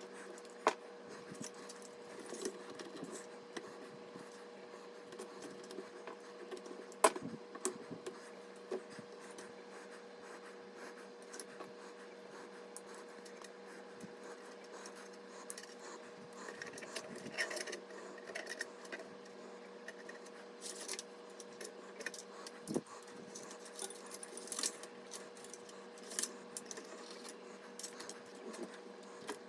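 Hands handling computer parts: scattered small clicks, taps and light metallic rattles, the sharpest about seven seconds in, over a steady faint hum.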